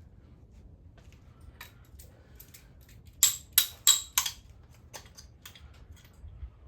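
Hand tools working on an engine during teardown: scattered light clicks and clinks, with four sharp knocks in quick succession a little over three seconds in.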